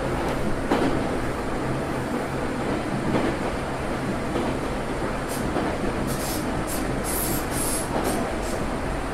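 Tokyo Metro 03 series armature-chopper electric train heard from inside the car while running along the track: a steady rumble of wheels and running gear with a low steady hum and occasional knocks. About five seconds in comes a series of short high-pitched squeals.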